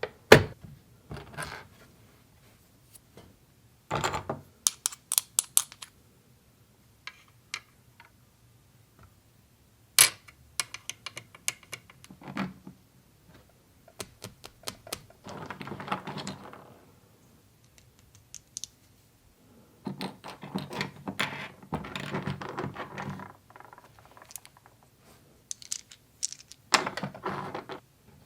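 Small plastic toy kitchen pieces clicking and tapping as they are handled and set down, in irregular bursts, with a few longer stretches of rustling.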